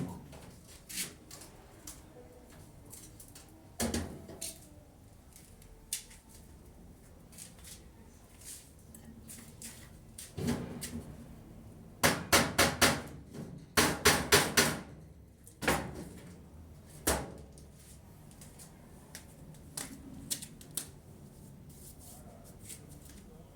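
Scattered knocks and taps, with two quick runs of rapid hammer-like strikes about halfway through, the loudest part.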